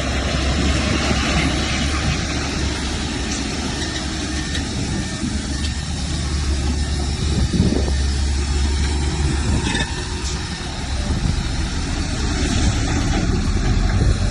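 Heavy earthmoving machine's diesel engine running steadily with a constant low hum.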